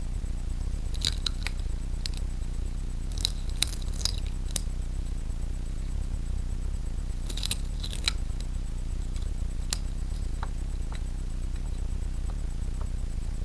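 Scattered light clicks and clinks of small hard objects being handled, in small clusters, over a steady low hum.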